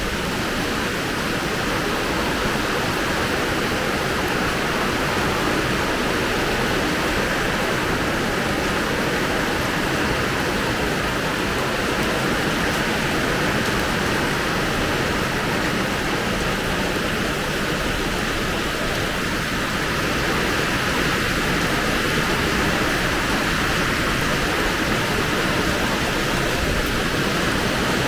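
Heavy rain pouring steadily, a dense even hiss of water with no let-up.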